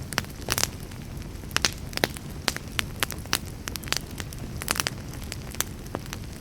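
Campfire crackling: irregular sharp pops and snaps, some in quick clusters, over a steady low rumble of the burning.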